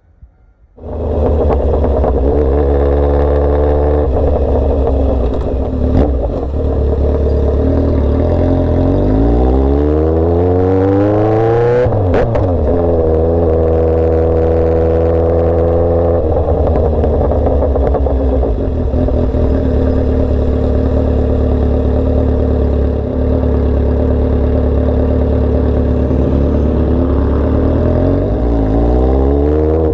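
Motorcycle engine with a loud straight-pipe exhaust, running steadily. Its pitch climbs for a few seconds, drops back quickly and settles, then rises briefly once more near the end.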